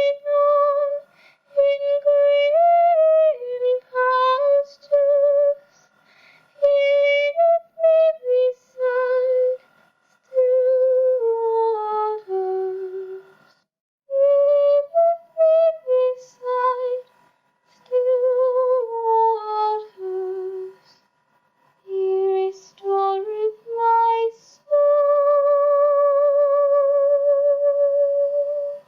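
A cappella singing by a lone high voice, most likely a woman's, with no instruments. The melody comes in short phrases with vibrato and ends on a long held note near the end.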